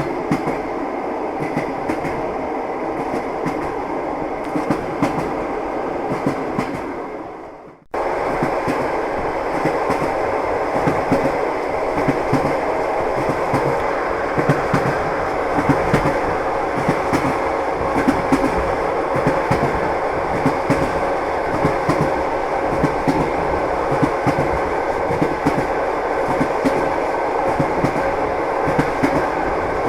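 Train wheels running over rail joints: steady rolling rumble with clickety-clack knocks. About eight seconds in it fades out briefly and comes back in abruptly, a little louder.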